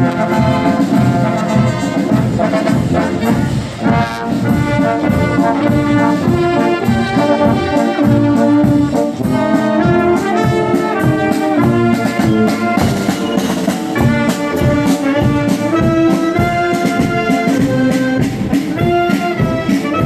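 Brass band playing a marching tune, trumpets and trombones carrying the melody over a steady drum beat.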